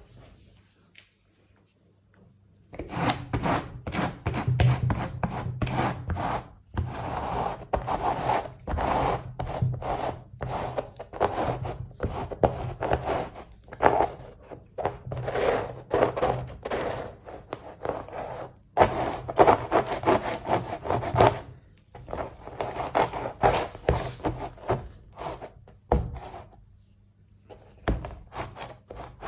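Repeated scraping and rubbing strokes on a wooden surface, coming in runs with brief pauses and starting about three seconds in: the sound of working a substrate for a painting by hand. A steady low hum sits underneath.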